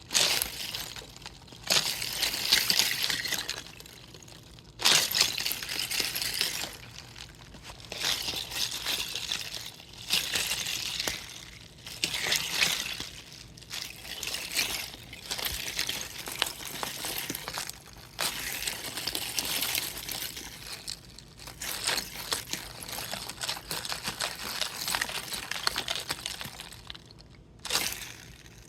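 Thin plastic water bottle, partly frozen, being squeezed and handled: the plastic crinkles and crackles while loose ice chunks clink and the water sloshes inside. The handling comes in repeated bouts of a second or two, with short pauses between them.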